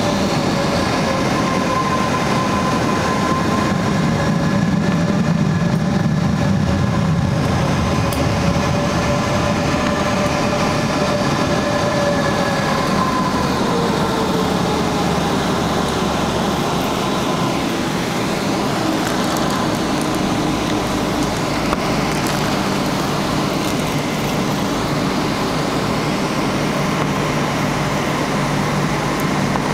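Cabin noise inside a Boeing 777-200ER with Rolls-Royce Trent engines: a steady rumble with several whining tones, one of which glides down in pitch about halfway through.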